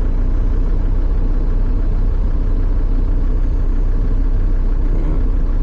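Land Rover Defender engine idling, a steady low rumble.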